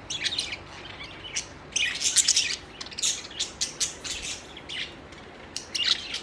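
Pet budgerigars chirping and chattering in quick clusters of short, high-pitched calls, with brief gaps between the clusters.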